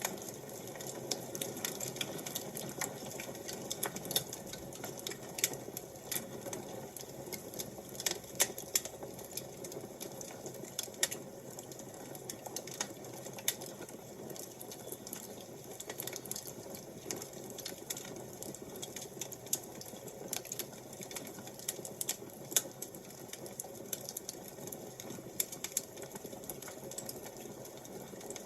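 Fire crackling: irregular pops and snaps over a steady soft hiss.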